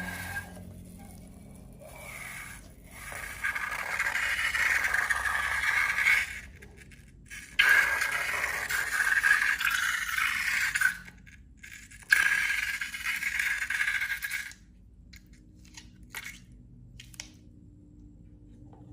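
Slime being scraped and mixed in three long passes of a few seconds each, followed by a few faint clicks.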